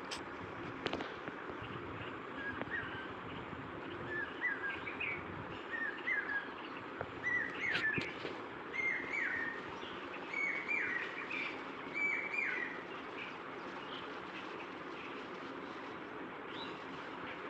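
A bird calling a run of short, falling chirps, about one a second, starting a few seconds in and stopping about two-thirds of the way through, over a steady outdoor hiss.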